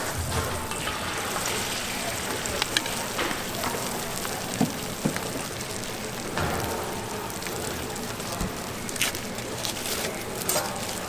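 Food sizzling steadily on a hot flat griddle, with a few sharp clicks of metal utensils against the plate.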